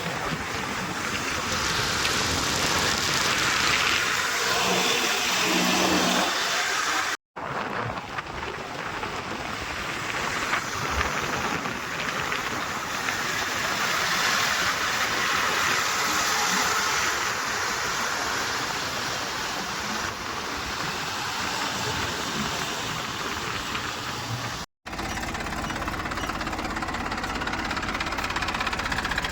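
Diesel engines of heavy earth-moving and farm machinery running steadily. The sound drops out abruptly twice, about 7 and 25 seconds in.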